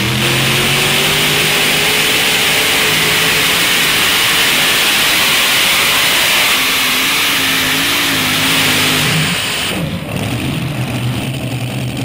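Modified pulling tractor with four big-block Chevrolet V8 engines running at full throttle under load on the sled pull. The pitch rises over the first second or two and then holds. Near ten seconds in it drops sharply to a lower, steady engine note as the throttle comes off.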